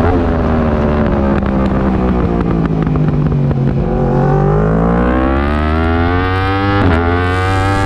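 Yamaha R1 crossplane inline-four race engine: revs fall for about four seconds as the bike slows and downshifts into a corner, with a few short crackles. The revs then climb steadily under hard acceleration out of the corner, with an upshift near the end.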